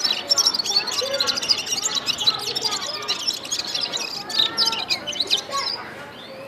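A gulsar bird singing a fast, continuous twittering song of rapid high chirps, which eases off near the end.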